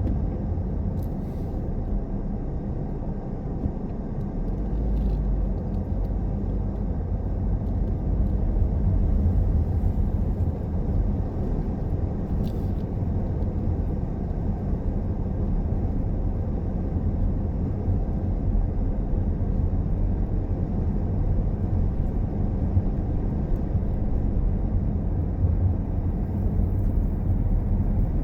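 Car driving steadily: a continuous low rumble of engine and tyre road noise, with a few faint clicks.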